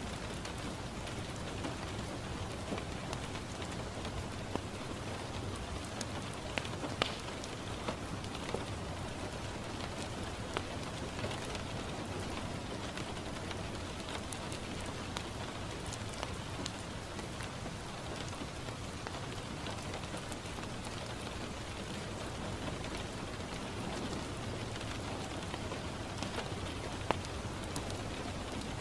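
Steady rain falling on a window, with scattered sharp pops and crackles from a wood fire in a fireplace.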